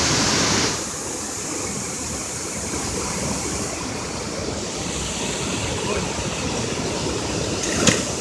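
Waterfall: the steady rush of falling water, a little louder in the first moment. A single short knock near the end.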